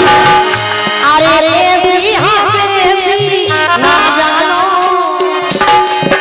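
Folk song performance: a singer's wavering, ornamented voice over sustained instrumental notes and a steady drum beat.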